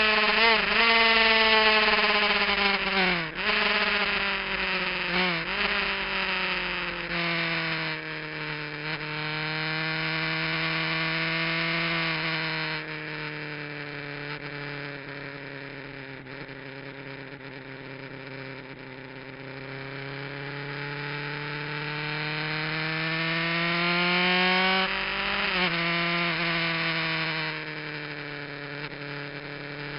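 Kawasaki GPZ900R's inline-four engine on a track lap: revs fall over the first several seconds with a few brief blips on downshifts, run low and steady, then climb for several seconds before dropping at a gearshift about 25 seconds in.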